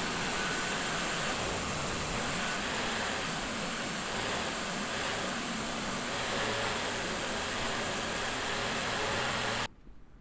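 Steady hissing noise of a power tool working steel, shaping small nubs on a high-carbon steel cleaver blade; it stops abruptly near the end.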